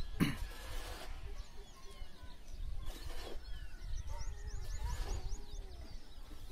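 Birds chirping, including a quick run of about eight high chirps about four seconds in, over a steady low rumble.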